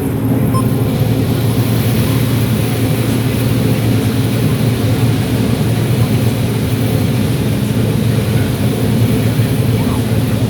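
John Deere 9760 STS combine running steadily while harvesting corn: a constant low drone of the engine and the threshing machinery.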